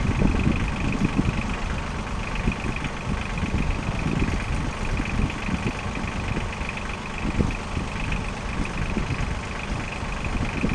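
A motor vehicle engine idling steadily, with a low rumble throughout.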